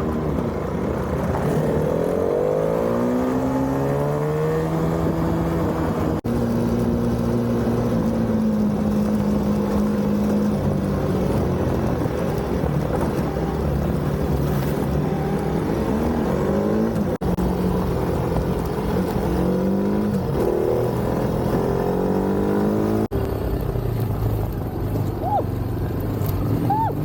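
Motorcycle engine running under way, its pitch rising and dropping again and again as the rider accelerates and shifts gears over a rough road. The sound is broken by a few abrupt cuts.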